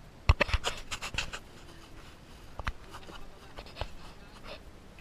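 Close scrapes and sharp knocks of contact noise: a quick cluster in the first second or so, then a few single knocks spaced about a second apart.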